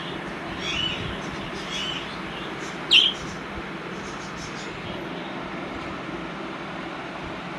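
Pet baby birds chirping: a few short chirps in the first two seconds, then one loud, sharp call about three seconds in, over a steady low background hum.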